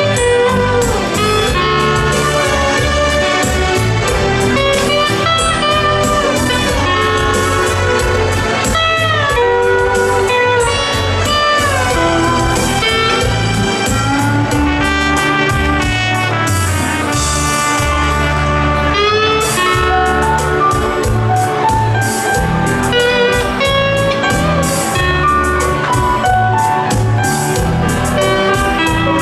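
Hawaiian steel guitar playing a slow melody with frequent sliding glides between notes, over a backing accompaniment with a steady bass line.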